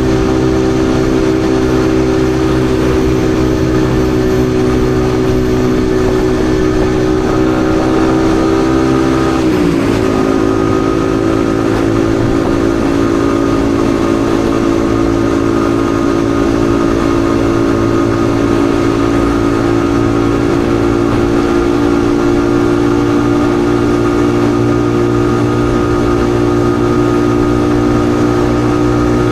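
Yamaha XSR155's 155 cc single-cylinder engine running steadily under way, with wind noise. Its pitch dips briefly about ten seconds in, then holds a little lower.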